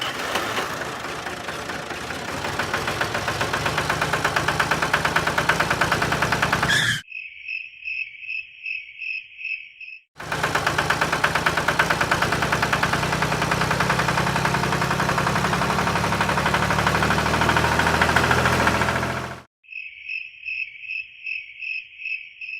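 A small engine running with a fast, even pulsing knock. It cuts off suddenly twice, and each time a train of short, high-pitched, cricket-like chirps follows, about three a second.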